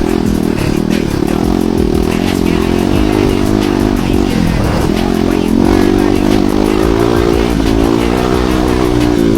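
Dirt bike engine running under load, its revs rising and falling, with scattered knocks and clatter.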